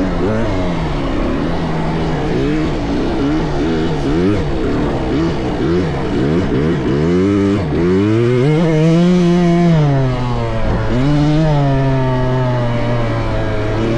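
Motocross dirt bike engines revving up and down as the bikes ride the track, several pitches overlapping. From about eight seconds in, one bike's engine is loudest, rising and then holding a steady note.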